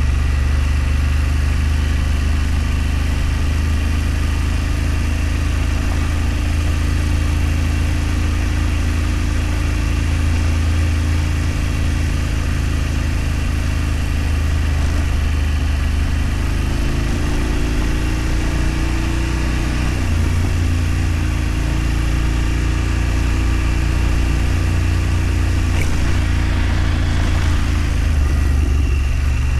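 A vehicle engine running steadily while travelling along a road, with continuous wind and road noise over a deep rumble. The engine note shifts a little in pitch partway through, as the speed changes.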